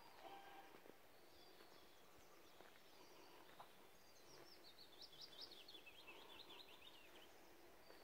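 A songbird singing faintly: a few scattered high chirps, then about halfway in a quick phrase of rapid notes that falls in pitch over about three seconds, above a quiet outdoor hiss.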